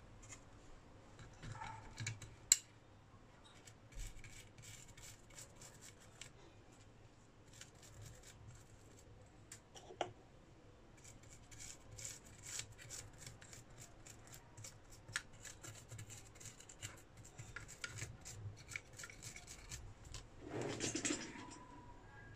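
Small hand tools working at a bench: a run of light, quick scratches and clicks, with one sharp click about two and a half seconds in and a louder rustle near the end.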